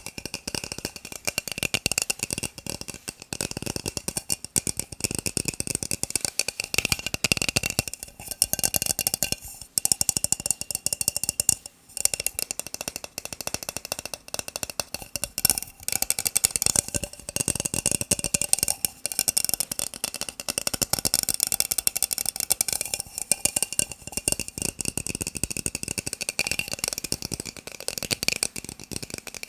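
Fingertips and nails tapping fast on plastic cups, a dense rattling stream of quick clicks with a hollow ring to it, broken by a few short pauses.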